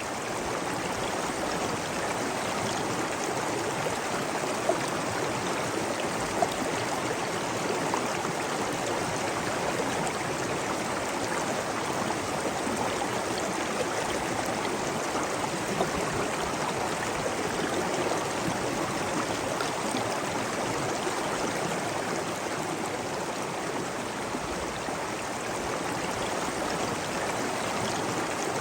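Running water rushing and splashing steadily, with a few brief louder drips or splashes now and then.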